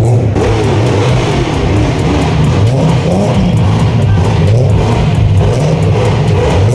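Car engines running and revving as show cars drive off, the pitch rising and falling, with music playing over them.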